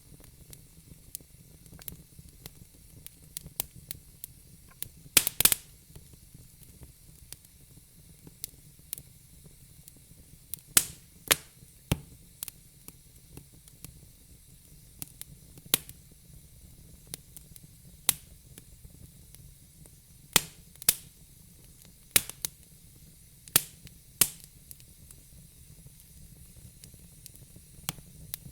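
Burning logs crackling in a fire pit: irregular sharp pops and snaps, some much louder than others, over a faint steady hiss.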